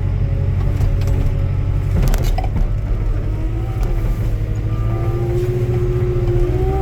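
Skid steer engine running steadily with a constant low hum, with a clank about two seconds in and a whine that rises slightly from about four seconds in.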